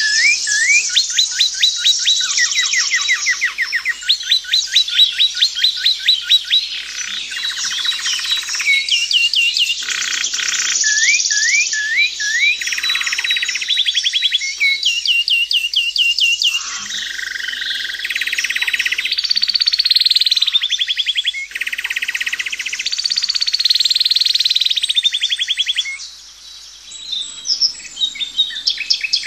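Several songbirds singing at once in overlapping phrases of rapid repeated notes, trills and short whistled glides, with no break.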